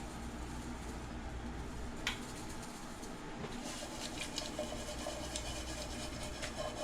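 Shrimp cooking in garlic oil in a frying pan with a steady light sizzle. There is one sharp click about two seconds in, then light clicks and scrapes of a utensil in the pan through the second half.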